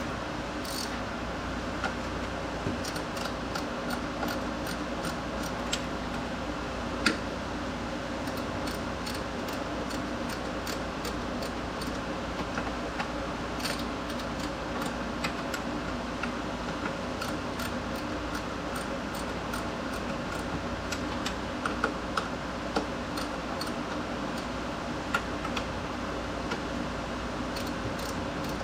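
Scattered light clicks and taps at uneven intervals over a steady low hum.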